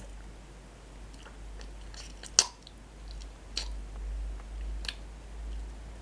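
Close-up bites and chewing of crunchy toasted bread sticks coated in cocoa cream. Four sharp crunches, the loudest about two and a half seconds in, with small crackles between them.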